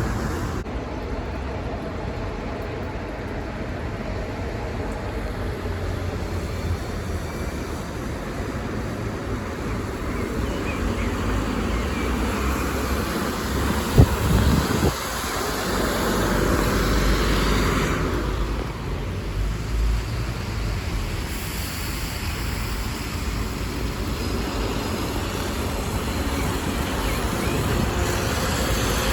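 City buses and road traffic running at a bus terminal, with a steady engine rumble that grows louder for a few seconds past the middle as a bus passes close. A single sharp knock about halfway through.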